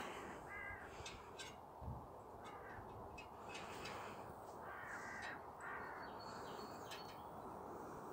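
Faint, short bird calls, repeated about five times at irregular intervals, with a few faint clicks between them.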